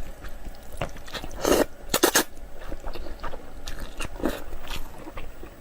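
A person eating egg noodles close to the microphone: chewing and wet mouth smacks in an irregular run, the loudest cluster about one and a half to two seconds in.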